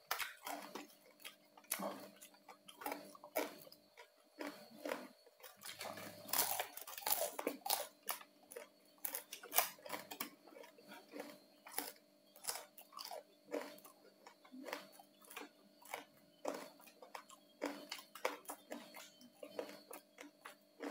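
Close-up chewing and biting of crunchy-skinned roast pork (saucu), with irregular crisp crunches and mouth clicks throughout.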